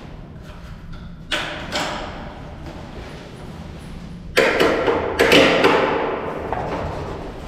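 BlueRev X8 electric scooter being folded and handled: a couple of sharp metal clicks and knocks, then two louder clanks of the frame about four and five seconds in, each fading out.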